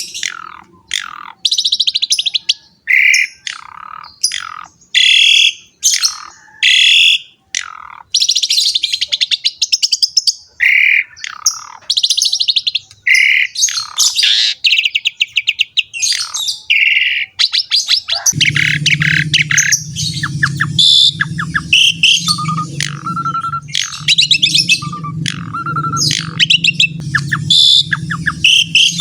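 Pied starling (jalak suren) singing non-stop, a fast run of varied chirps, whistles and harsh notes. About two-thirds of the way in, a steady low hum joins underneath.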